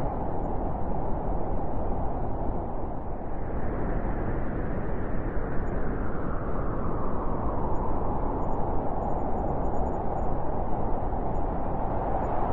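Wind blowing steadily in a low rushing noise, with a gust swelling a few seconds in and easing off again.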